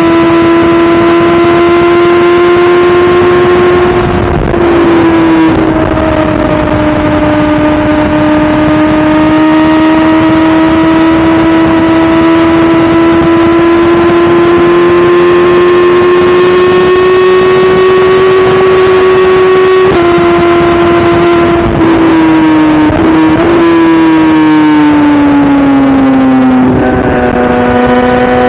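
BMW S1000RR inline-four engine running loud at high revs under way, its pitch climbing slowly. The pitch steps down a few times with brief breaks, as at gear changes, then falls steadily near the end as the bike slows.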